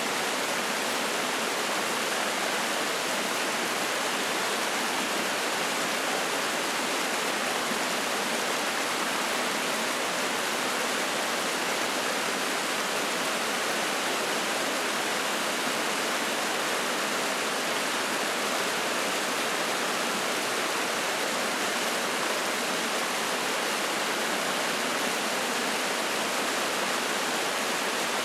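Mountain stream water rushing and splashing over rocks, a steady full rush with no breaks.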